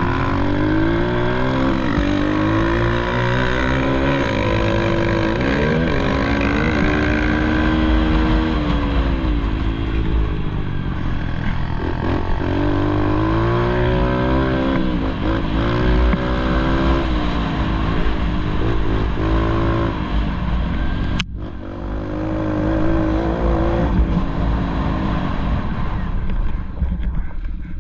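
Pit bike engine being ridden hard, its pitch climbing and dropping again and again as it is revved up and backed off. About three quarters of the way through there is a sharp click and a brief drop-out.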